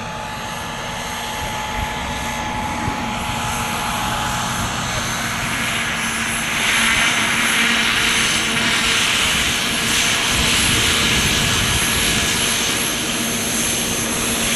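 Radio-controlled scale model helicopter flying, a steady high whine over the rush of its rotors, growing louder and swelling about six seconds in.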